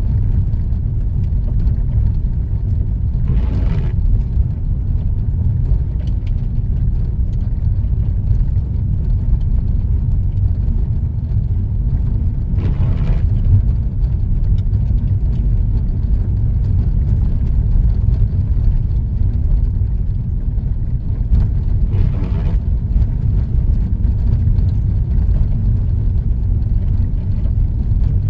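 Steady low road and engine rumble of a car driving, heard from inside the cabin. Three brief swishes come about nine seconds apart.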